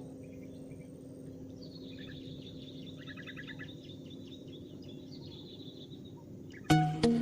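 Small birds chirping and trilling in short repeated phrases over a steady low background hum. Near the end, loud music with sharp plucked notes cuts in.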